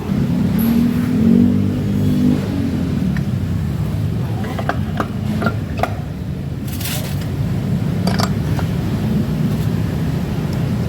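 An engine running steadily, its pitch wavering briefly near the start, with scattered metallic clicks and knocks of tools and parts in the middle.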